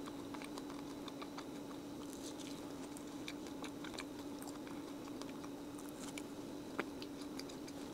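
Quiet chewing of crisp-shelled honey bread: faint, scattered crunches and mouth clicks over a steady low hum.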